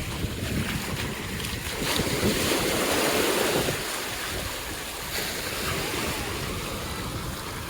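Ocean surf washing onto the beach, with wind buffeting the microphone. A wave rushes in loudest about two to four seconds in.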